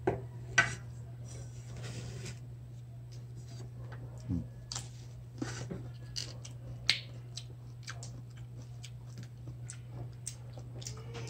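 Eating sounds: mango slices being bitten and chewed, with scattered sharp clicks and mouth smacks, over a steady low hum.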